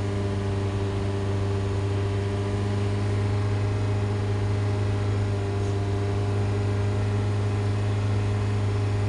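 Car engine and road noise droning steadily at a constant cruising speed, heard from inside the cabin, with a strong low hum.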